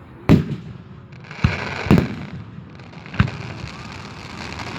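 Aerial fireworks shells bursting overhead: four sharp bangs over about three seconds, the middle two close together, with a hissing crackle in between.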